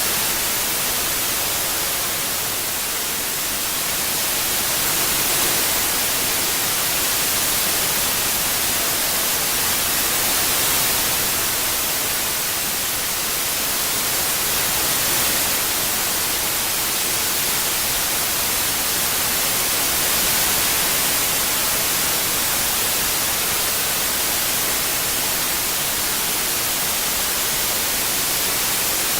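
Synthetic white noise for tinnitus masking: a steady hiss, strongest in the high frequencies, panned around in an 8D effect so that it swells and eases gently about every five seconds.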